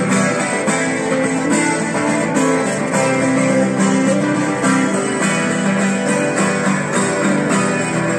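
Guitar strummed in a steady rhythm: an instrumental break in a song played to guitar.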